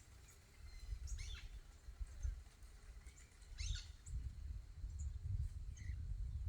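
Wild birds calling: two short calls that sweep downward, about two and a half seconds apart, and scattered faint high chips, over a low rumble.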